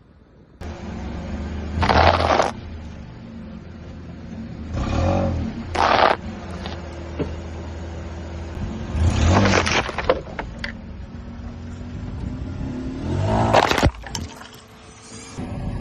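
A car's tyres roll slowly over brittle objects and crush them with loud crackling crunches, about four bursts spread through, over the car's steady engine hum.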